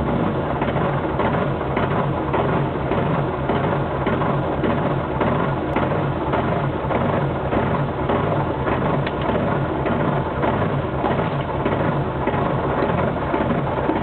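Peugeot 106 Rallye's four-cylinder engine idling steadily with an even fast pulse, heard from inside the car's cabin while it stands still.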